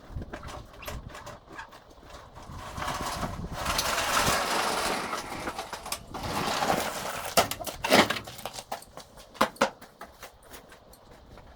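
Clean-up handling noises: a stretch of scraping and rustling, then several sharp knocks and clatters, the loudest about eight seconds in.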